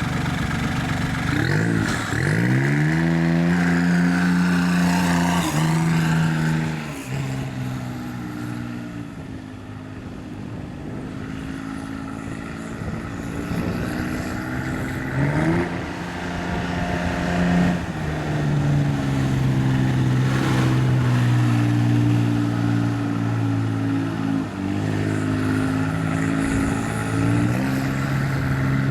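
Custom Kawasaki MULE's turbocharged Daihatsu diesel engine running and revving as the side-by-side drives, its pitch rising and dropping several times. It grows quieter for several seconds in the middle, then louder again.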